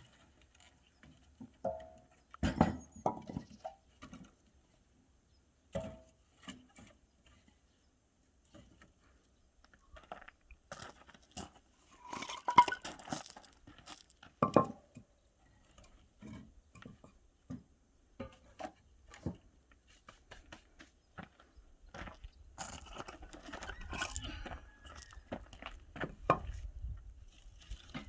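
Twigs and split firewood being handled and pushed into the firebox of a wood-fired iron cauldron: scattered snaps, knocks and clinks of wood, with a low rumble building over the last several seconds.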